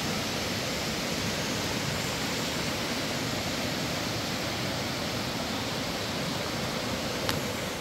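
A steady, even rushing noise with no change in level, with one brief faint click near the end.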